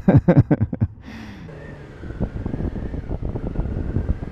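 Motorcycle engine running on the move, getting louder about two seconds in, with wind buffeting the microphone.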